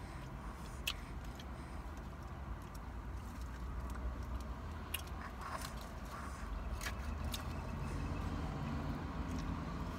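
Biting and chewing fried chicken, with a few sharp crunches and mouth clicks, over a steady low rumble inside the car.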